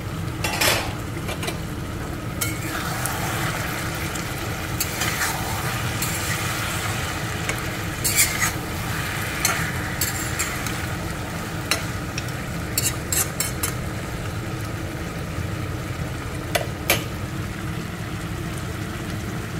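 Chicken pieces in masala sizzling as they fry in a stainless-steel pot. A spatula stirs them, scraping and knocking against the metal every so often, with a cluster of knocks in the middle. This is the dry-frying stage, where the pot is left uncovered so the steam and liquid cook off.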